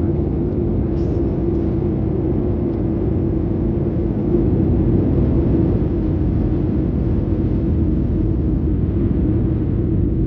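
Steady jet engine drone and air rush inside the cabin of a Boeing 737-700, with a constant low hum.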